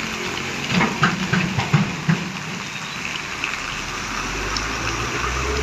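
Heavy rain hissing steadily, with a cluster of short thumps about a second in and a low truck engine rumble building near the end.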